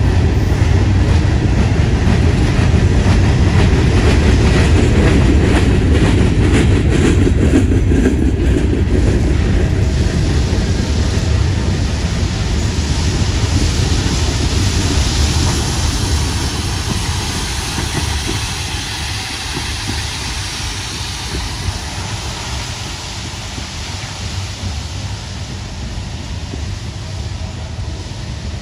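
A ballast train's hopper cars roll past close by, their wheels rumbling steadily on the rails, with the hiss of crushed stone pouring from the open hopper gates onto the track. The noise slowly eases off in the second half.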